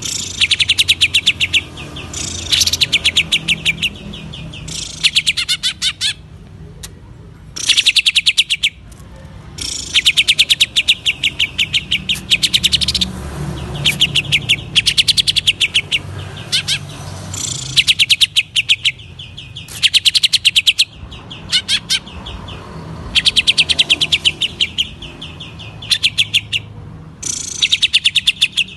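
Green leafbird (cucak ijo) singing in the fast stuttering 'ngentrok' style: a dozen or so rapid rattling bursts of sharp repeated notes, each about a second long, with short pauses between them.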